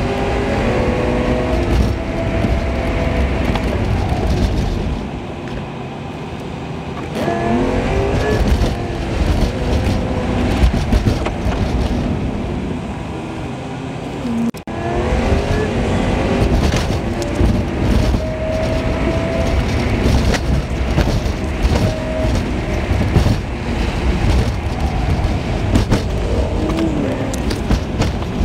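Car engine and road noise from the dash cam, played at triple speed, so the engine's pitch glides up and down fast as the car speeds up and slows; it quietens twice, and there is a sharp click about halfway through.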